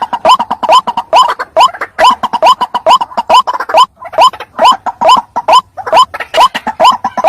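White-breasted waterhen (ruak-ruak) calling in a rapid, loud series of short rising notes, about two to three a second, with a brief break partway through. This is a lure call used to draw male and female waterhens in.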